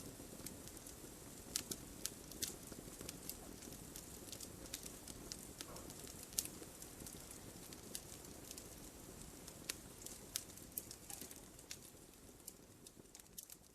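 Wood logs burning in a fireplace: a steady low hiss of flame with frequent sharp, irregular crackles and pops. It fades down near the end.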